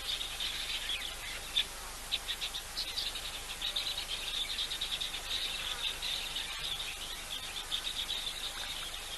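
Outdoor animal chorus: dense, high-pitched chirping of insects and birds that carries on throughout, with a few louder single chirps a couple of seconds in.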